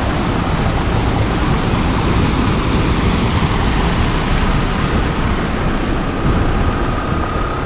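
Wind buffeting the microphone: a loud, steady rushing rumble and hiss, with a faint thin tone coming in about six seconds in.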